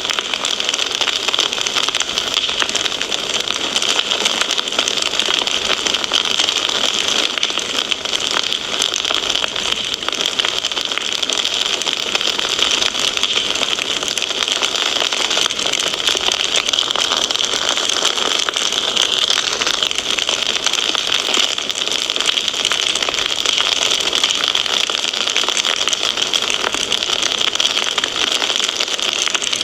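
Fireplace fire crackling steadily, with many small pops over a constant hiss.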